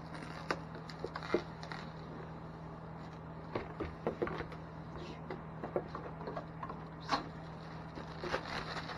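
Irregular light clicks and taps from hands working small plastic parts of an RC drift car, over a steady low hum.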